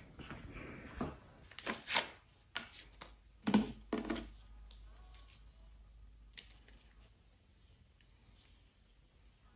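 Handling noises from cleaning: a cluster of sharp knocks and scrapes in the first half, the loudest about two seconds in and again a second and a half later, then faint room tone.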